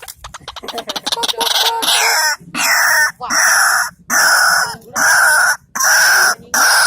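A bird giving loud, harsh calls: a quickening run of short rapid notes, then a regular series of rasping calls, each under a second, about one a second.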